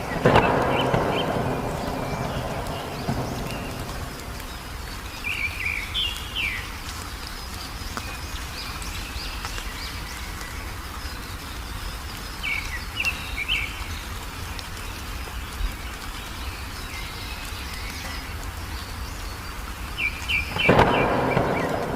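Songbird chirping in short bursts of a few notes over steady rain. Thunder cracks and rumbles just after the start and again near the end, the loudest sounds.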